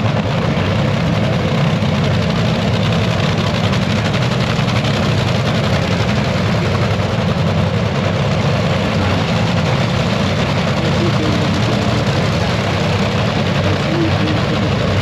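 Loud, steady engine idling, unchanging throughout.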